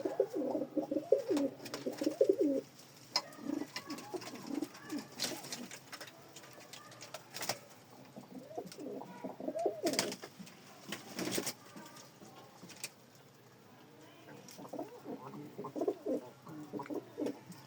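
Karak pigeons cooing in repeated low warbling bouts, with pauses between them. A few sharp clicks or taps come in the middle.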